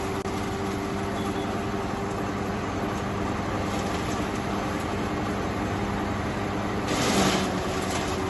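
Mobile wood chipper and plastic shredder machine running steadily with a constant hum, swelling into a louder, noisier rush about seven seconds in.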